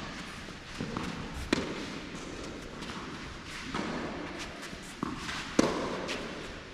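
Tennis balls struck by rackets and bouncing on an indoor court, a few sharp pops with the two loudest about four seconds apart, each ringing out in the hall's echo.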